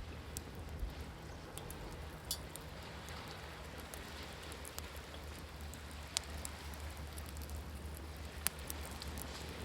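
Campfire crackling, with sharp pops about half a second, two seconds, six seconds and eight and a half seconds in, over a steady low wash of ocean waves.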